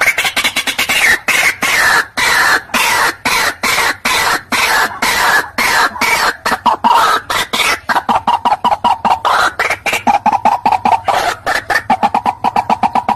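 White-breasted waterhen calling: a long, fast run of short repeated notes, several a second, without a break.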